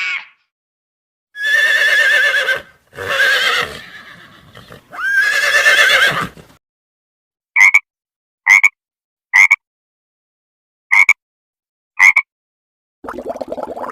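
Horse whinnying three times, each a long call with a trembling, wavering pitch. Then five short, sharp calls of another animal come about a second apart, and near the end a rapid crackling patter begins.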